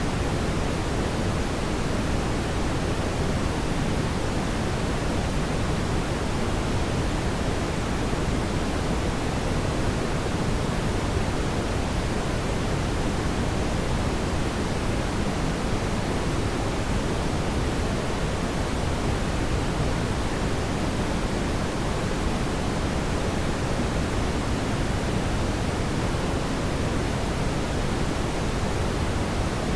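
Steady, even rushing noise, heaviest in the low end and thinning toward the highs, with no distinct crackles or pops; this is the fireplace ambience track.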